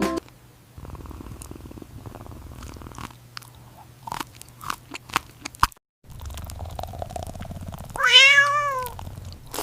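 A cat chewing and crunching food over a low steady purr, then one loud meow about eight seconds in that rises and falls in pitch.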